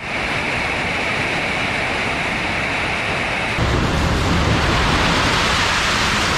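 REB-2 two-ram baler plant running while baling aluminum cans, a steady mechanical noise. About three and a half seconds in the sound changes abruptly, becoming a little louder and deeper.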